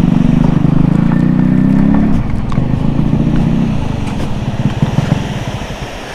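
Motorcycle engine running under way, its pitch rising twice, then easing off and fading into slower low thumps as the bike slows.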